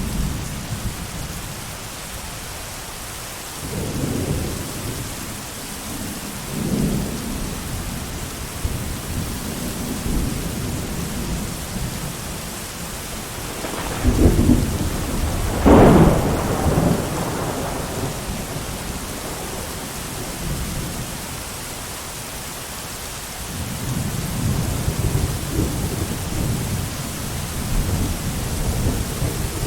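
Thunderstorm: steady heavy rain with rolling thunder. Low rumbles come about four and seven seconds in, a loud, sharper thunderclap around fifteen seconds in, and a long low rumble near the end.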